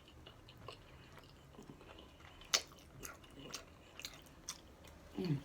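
A person chewing and biting food close to the microphone, with sharp crunching and smacking clicks, the loudest about two and a half seconds in. Near the end comes a brief hum that falls in pitch.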